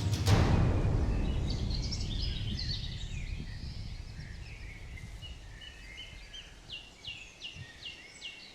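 Small birds chirping and singing, with a run of short downward-sweeping chirps near the end. A deep boom at the start fades away over the first few seconds.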